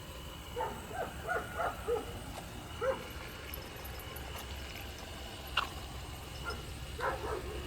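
A dog's short, high yips and whimpers in several quick clusters, over a steady low hum.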